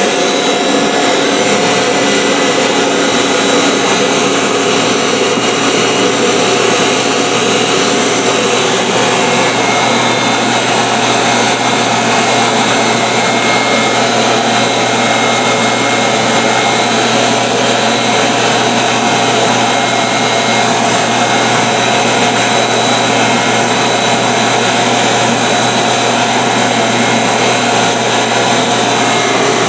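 Vacuum cleaner running steadily at full power: a constant rush of air with a steady motor hum and whine.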